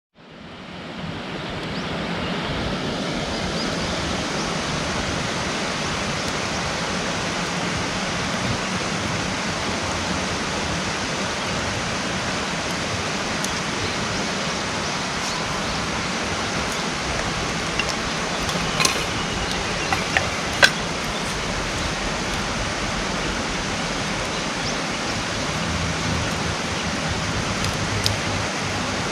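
Steady rushing noise with a wood campfire crackling, several sharp pops from the burning wood coming about two-thirds of the way in.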